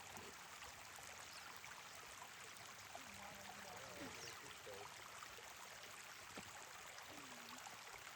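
Quiet, steady rushing background noise, with faint voices now and then.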